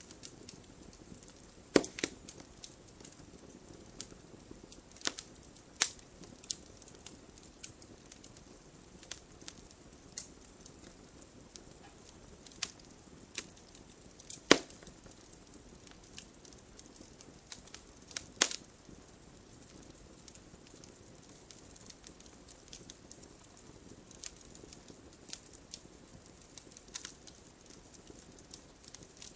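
Wood fire crackling: irregular sharp pops and snaps over a soft steady hiss, with a few louder pops about two seconds in, halfway through and about two-thirds of the way through.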